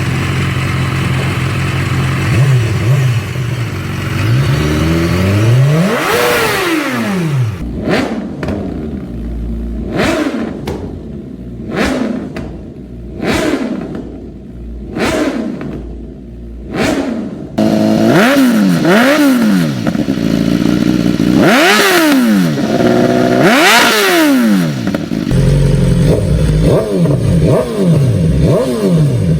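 BMW S1000RR inline-four sportbike engine being revved through aftermarket exhausts, its pitch shooting up and dropping back in repeated sharp blips. The sound changes abruptly three times, as separate exhaust setups are cut together.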